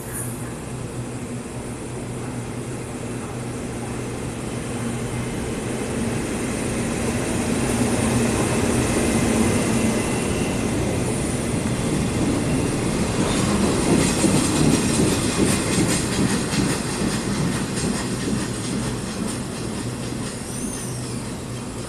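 Train rolling along the tracks, growing louder to a peak past the middle and then fading, with rapid wheel clatter over the rails and a steady low hum throughout. Near the end a brief high wheel squeal rises and falls.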